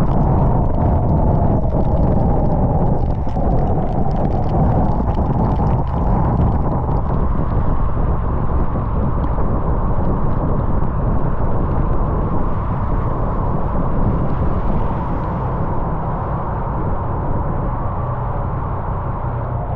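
Honda Transalp XL750's parallel-twin engine running while the bike is ridden, under a heavy, dull wind rumble on the action camera's microphone. The sound eases off slightly in the last few seconds.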